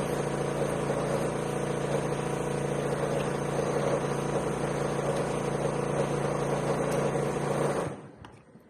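A steady machine hum with a low drone, cutting off suddenly about eight seconds in.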